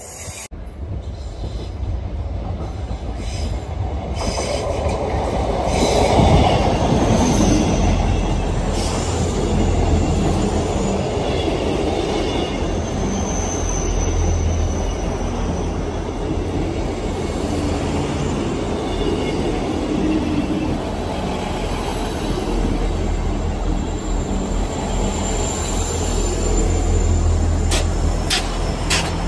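South Western Railway electric multiple-unit train running past alongside the platform: a steady rumble of traction motors and wheels on rail. Brief faint high wheel squeals come through at times, and a quick run of sharp clicks is heard near the end.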